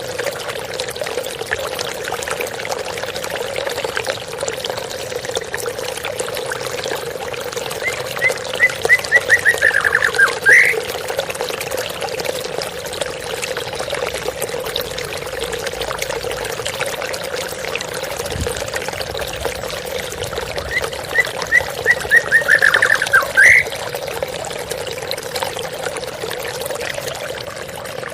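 Steady splashing of a small waterfall. A songbird sings the same short phrase twice, a quick run of notes ending in a rising upsweep, about a third of the way in and again about three quarters in.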